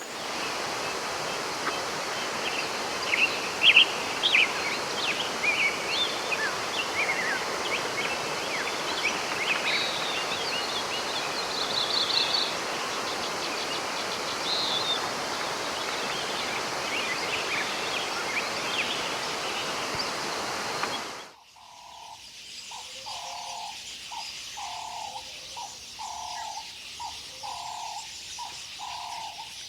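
Tropical jungle birds chirping and calling over a steady hiss of forest ambience. About two-thirds of the way through the sound cuts to a quieter spot, where a single bird gives a low one-pitched call, repeated about once a second.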